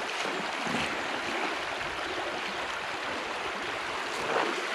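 Steady rush of river water flowing over stones.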